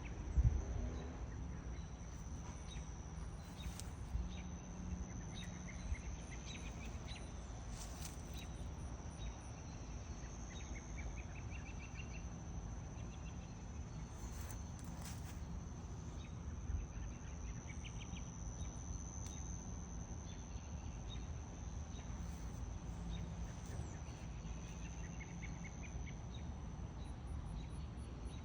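Insects chirring in a steady high-pitched drone, with short trills now and then and a low rumble underneath. A single knock about half a second in is the loudest sound.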